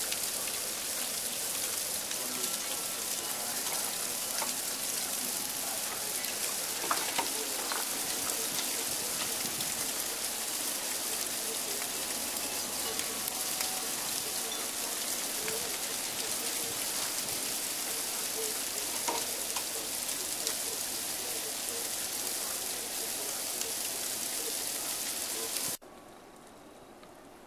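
Heavy sleet falling and hitting surfaces: a dense, steady hiss of fine ticking pellets. It stops abruptly near the end, leaving only a much quieter hiss.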